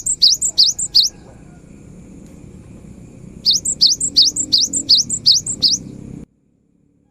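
Cinereous tit singing: fast runs of sharp, rising high notes repeated about three times a second, one run ending about a second in and a second longer run after a short pause. The sound cuts off abruptly near the end.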